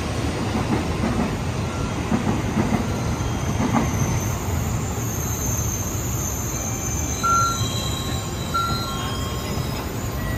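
Tōkaidō Shinkansen Kodama train pulling out of the station, its wheels and traction motors giving a steady rumble as it leaves the platform. A few short high beeps sound in the second half.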